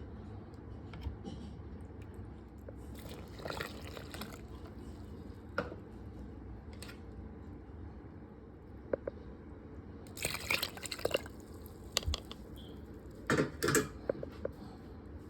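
Liquid sounds in a few short, irregular spells of splashing and dripping, with a few small clicks between them.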